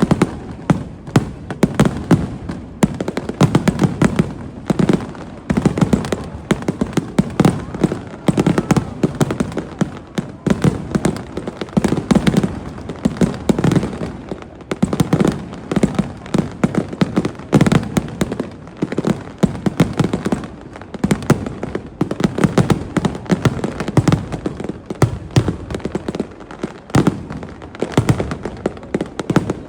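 Aerial fireworks bursting in rapid succession: a dense run of overlapping bangs, several a second, with no let-up.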